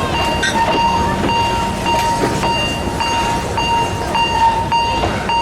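Railway level-crossing warning signal beeping steadily, a little under two beeps a second, over the running noise of a narrow-gauge steam train.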